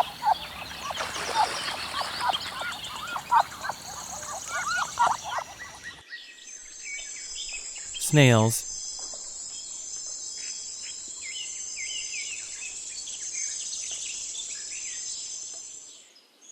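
Ducklings peeping, many quick short calls that rise and fall in pitch, until an abrupt cut about six seconds in. After the cut comes a steady high-pitched whir with scattered faint chirps.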